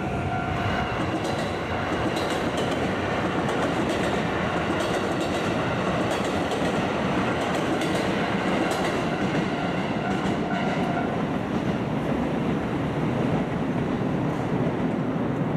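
A train running past over a railway level crossing: a steady rumble of wheels on rails, with clicks from the wheels passing over rail joints.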